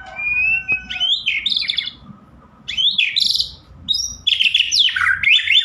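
White-rumped shama (murai batu) singing loud, varied phrases of fast trills and sweeping whistles, in three bursts with short pauses between them.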